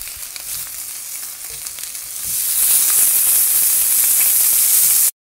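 Food frying in a hot pan: a steady sizzling hiss with small crackles and pops, which gets louder about two seconds in and cuts off suddenly near the end.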